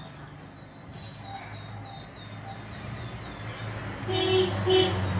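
A small bird chirping, a quick run of short high downward chirps about three a second. About four seconds in, a vehicle horn beeps twice, the loudest sound. A low steady hum runs underneath.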